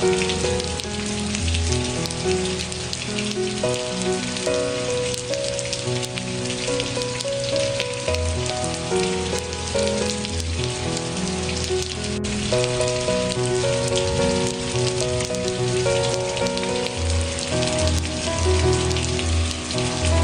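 Steady rain pattering, mixed with a soft, slow instrumental melody of held notes over a low bass line.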